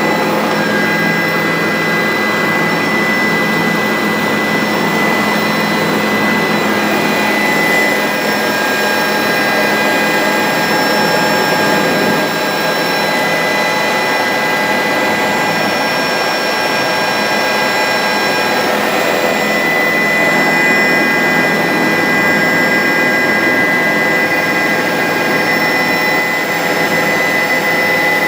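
Bell 407 helicopter's turboshaft engine and rotor running steadily: a loud, even rush with a constant high whine over it.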